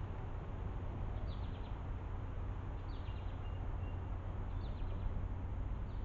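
A bird calling repeatedly, a short high note about four times, roughly every second and a half, over a steady low rumble and hiss.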